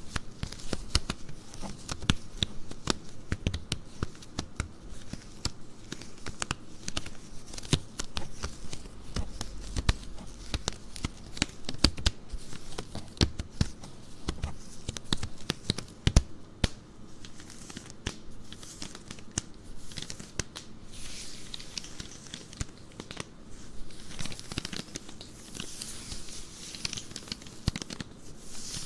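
Stockings being rubbed, stretched and scratched close to the microphone: a dense, crackly scratching of the fabric with many small clicks.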